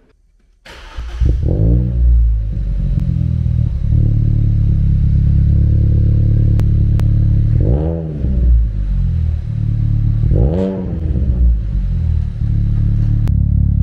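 Ford Fiesta ST's turbocharged petrol engine cold-starting through a KMS Hurricane exhaust with its intermediate silencer pipe fitted. It catches about a second in, flares up and settles into a steady fast cold idle, with two short throttle blips, around eight and ten and a half seconds in.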